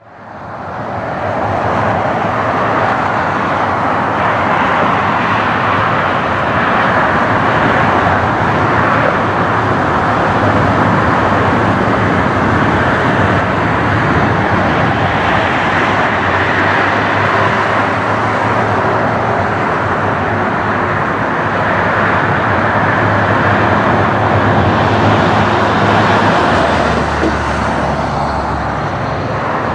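Jet airliner engines running with a loud, steady roar that fades in at a cut and holds with only slight swells.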